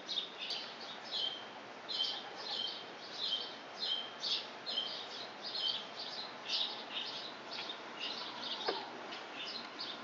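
Small songbirds chirping and twittering in the trees, a continuous run of short high chirps, two or three a second.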